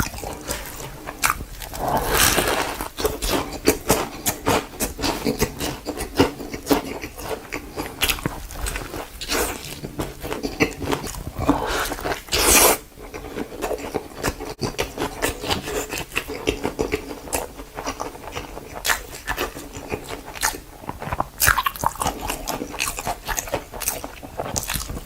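Giant panda eating, with close-up chewing and crunching: a steady run of crisp cracks and snaps, loudest about halfway through.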